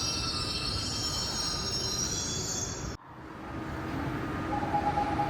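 Seoul Metropolitan Subway Line 4 train running on the rails, with high-pitched wheel squeal over the rumble. It cuts off suddenly about three seconds in, then the train noise builds up again with a steady tone near the end.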